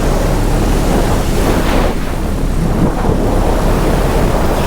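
Wind buffeting the microphone of a paramotor pilot in flight: a steady, loud rush of noise with no clear engine tone.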